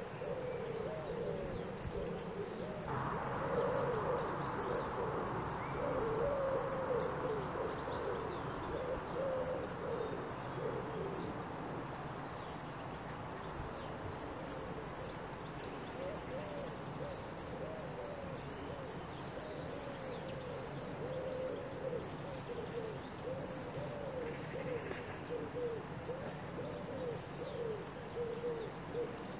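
Birds calling and singing outdoors: a steady run of low, wavering calls with faint high chirps now and then. A soft rushing noise comes in about three seconds in and fades away over the next ten seconds or so.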